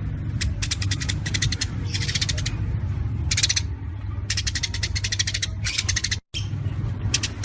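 Songbird singing rapid-fire 'tembakan' phrases: short bursts of very fast, high-pitched staccato notes, repeated every second or so, over a steady low hum. The sound cuts out for a moment near the end.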